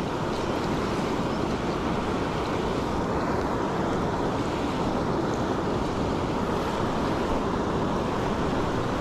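Steady rushing of water pouring over a river spillway, an even unbroken roar.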